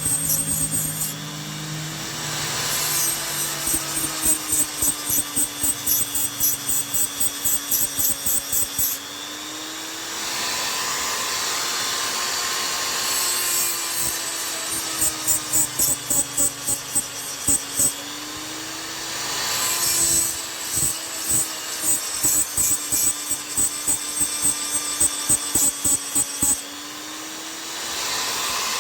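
Chisel being sharpened by rubbing it back and forth on a sharpening stone, in quick even strokes of about three to four a second. The strokes come in three runs of several seconds each, with short pauses between.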